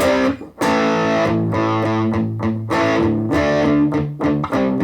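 Electric guitar played through a Positive Grid Reactor 50 combo amp on its crunch channel with the smooth setting, playing overdriven chords. There is a short break about half a second in.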